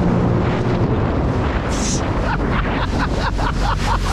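Jet ski engine running at speed with wind buffeting the microphone; the engine's steady tone fades about a second in, and from about two seconds in a rapid run of short slaps comes about four a second as the hull bounces on the water.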